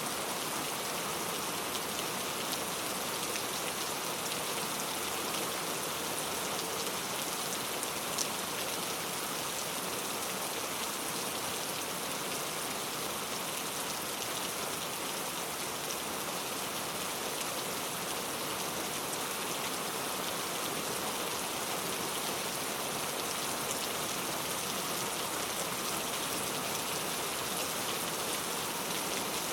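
Steady rain falling: an even hiss with fine, scattered drop ticks, and one sharper drop about eight seconds in.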